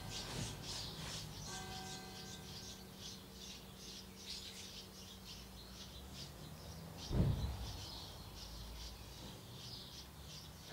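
Birds chirping steadily in the background, many short rapid chirps, with a single dull low thump about seven seconds in.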